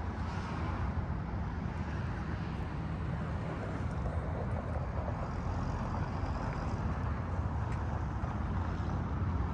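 Steady freeway traffic noise from Interstate 90: a constant low rumble with tyre hiss.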